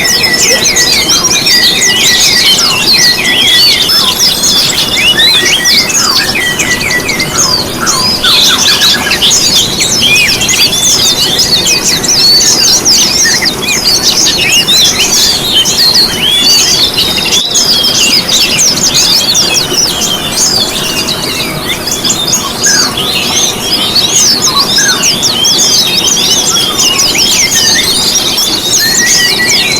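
A dense, loud chorus of many small songbirds twittering at once: rapid, overlapping high chirps and quick falling notes with no break.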